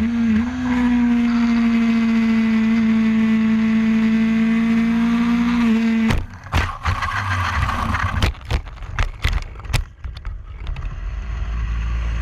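Racing motorcycle engine running at steady high revs, then cutting off abruptly about six seconds in. A rapid string of sharp knocks, scrapes and clatter follows, typical of a bike crashing and sliding, then a steady low engine rumble near the end.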